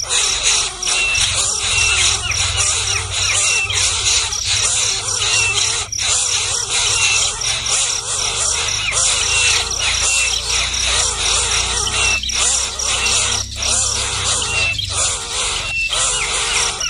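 Baby birds calling: harsh, noisy squealing calls with short high chirps repeating about once a second, over a low steady hum.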